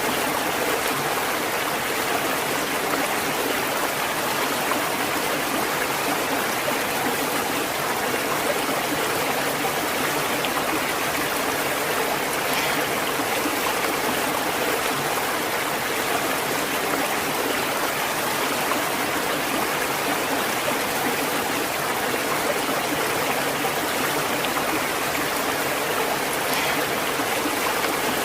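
A flowing stream: the steady, even rush and babble of running water over rocks.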